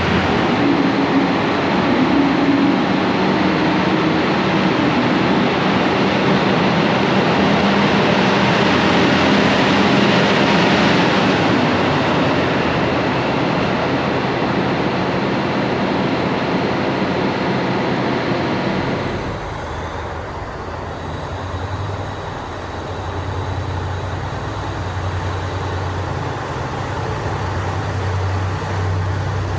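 JR Hokkaido Kiha 150 diesel railcar running, a loud steady rush of wheel and engine noise. About two-thirds of the way through, it changes abruptly to a quieter, steady low diesel engine hum.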